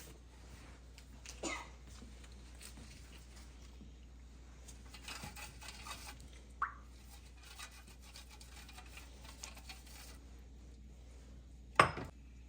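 Quiet kitchen handling sounds: light rustling and a few small knocks, with one sharp knock near the end.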